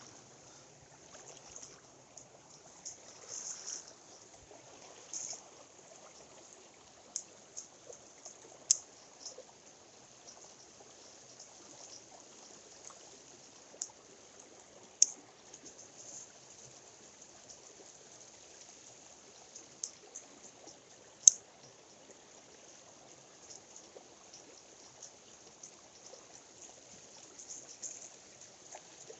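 Mountain stream water running steadily, with a few short sharp clicks or taps, the loudest about 9, 15 and 21 seconds in.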